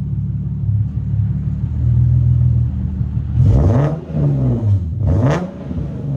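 Nissan 370Z Nismo's VQ37 V6 idling through a full Tomei exhaust (downpipes, Y-pipes and catback), then revved twice in the second half, each rev rising and dropping back to idle.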